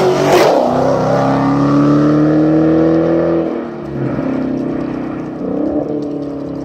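Supercharged car engine revving, its pitch climbing for about three seconds and then falling away, with a second, shorter rev near the end.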